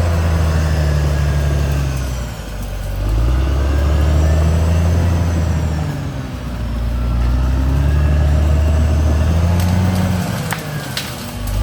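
CAT D6R XL bulldozer's diesel engine working hard, its pitch dipping and picking up again several times as the load changes. A few sharp cracks come near the end.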